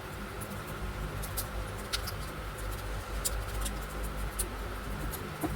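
Scissors snipping and handling plastic drinking straws: light, sharp clicks at irregular intervals over a steady low hum.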